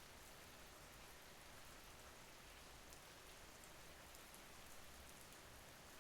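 Faint, steady rain: an even hiss of rainfall with scattered drop ticks.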